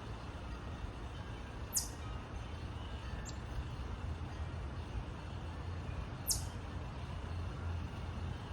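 Small songbirds at a backyard feeder giving short, high chip notes: two clear ones about four and a half seconds apart, with a fainter one between them, over a steady low rumble.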